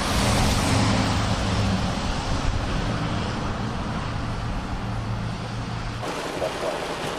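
Motor vehicle engine humming steadily under a broad hiss of water and wet tyres on a rain-flooded street. About six seconds in the sound changes abruptly and the engine hum drops away.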